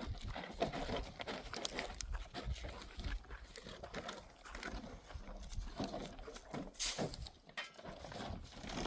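Animal sounds, with scattered knocks and clicks.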